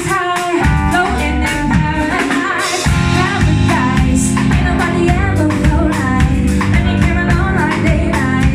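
Live band performing a song: a singer's voice over electric guitar, bass and drum kit. The bass and drums drop out for the first few seconds, then the full band comes back in.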